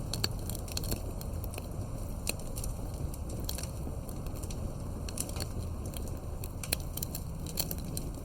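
Campfire burning, with irregular crackles and sharp pops from the firewood over a steady low rumble.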